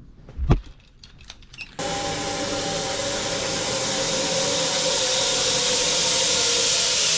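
Zip line trolley running along the steel cable: a single thump, then about two seconds in a loud, steady whirring hiss starts suddenly and keeps going.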